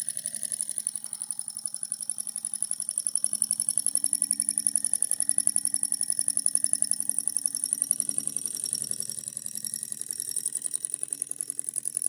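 Small flame-licker (vacuum) beam engine running under load, driving a small fan by a brass pulley, with a fast, even mechanical beat from its piston and flywheel. It swells a little over the first few seconds and eases slightly later on.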